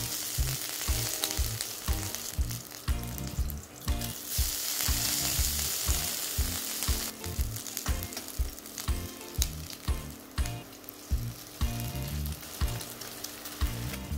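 Bell pepper ring frying in a hot pan, sizzling steadily, the sizzle louder for a few seconds in the middle.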